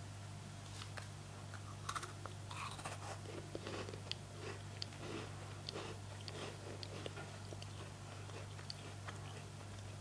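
Ingredients being handled: scattered light clicks and crinkles over a steady low hum.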